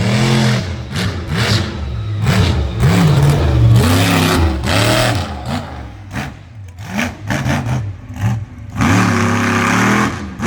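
Engines of demolition derby vehicles revving hard again and again, each rev's pitch rising and falling, with noisy stretches between.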